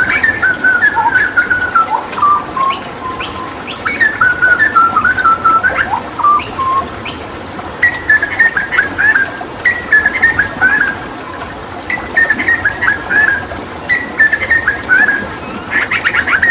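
Hooded butcherbird singing: short phrases of clear, fluting whistled notes that jump and fall in pitch, repeated every couple of seconds, over a steady rush of running water.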